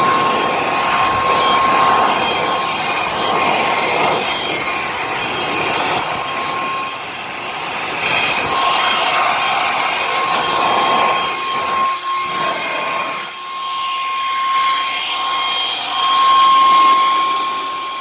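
Battery-powered blower running, a steady rushing whine with a high tone, its loudness swelling and easing; it shuts off at the very end.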